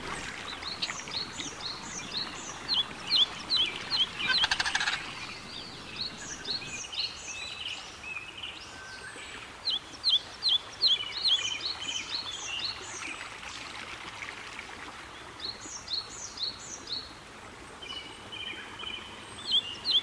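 Small birds chirping in repeated runs of short, sharp, high chirps, about three or four a second, over a faint steady outdoor hiss.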